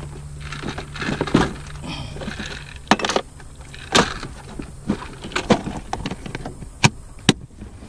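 Knocks, clicks and rattles of gear being handled in an aluminium jon boat, over a steady low hum that stops about three seconds in.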